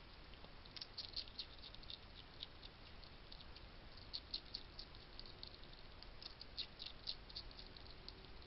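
Hedgehog crunching dry food, faint crackly clicks coming in short clusters, several times.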